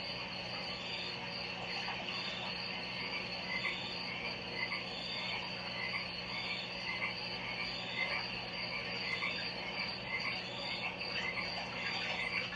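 A chorus of frogs calling, short croaks repeating about twice a second, over a steady high-pitched insect-like tone and a low steady hum.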